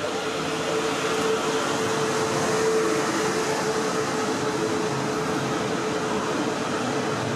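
Electric multiple unit passing along a station platform: a steady rumble of wheels on rail, with a steady motor whine that is strongest in the first few seconds and then fades.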